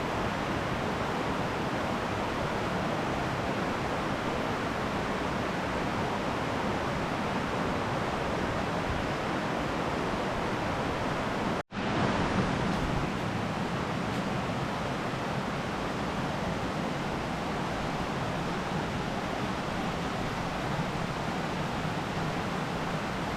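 Steady rushing noise, even and unbroken, cutting out for an instant about halfway through before carrying on as before.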